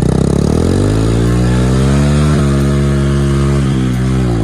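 Motorcycle engine revving up from low speed, its pitch climbing over the first second and a half and then held high. It dips briefly twice, then drops and climbs again near the end, as with a gear change or a throttle blip.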